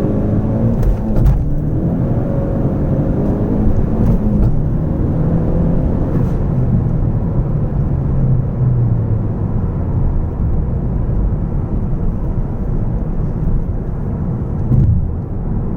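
Turbocharged Ford Focus ST four-cylinder heard from inside the cabin under a full-throttle pull: the engine note climbs in pitch, breaks at the gear changes and climbs again over the first six seconds or so, then settles into a steady engine and road rumble as the driver eases off.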